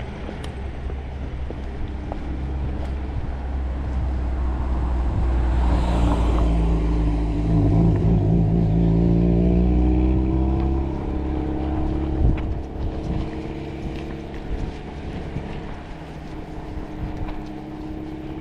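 A car passing close by: its engine grows louder and rises in pitch, is loudest about eight to ten seconds in, then fades as it moves away. A single sharp knock comes about twelve seconds in.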